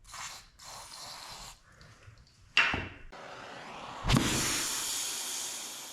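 Aerosol cleaner spraying from a can onto a mass airflow sensor's hot wires: two short hisses, a sharp burst about two and a half seconds in, then a longer spray starting suddenly about four seconds in and slowly fading.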